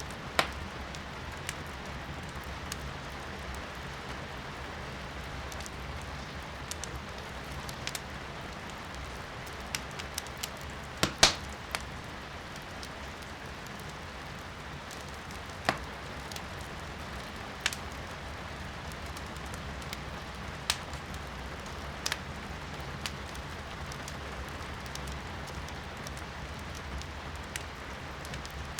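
Firewood burning in a fireplace: scattered sharp crackles and pops, the loudest pair about eleven seconds in, over a steady hiss of rain.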